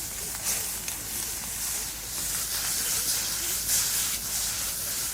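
Food sizzling in a frying pan: a steady, loud hiss with a few small pops.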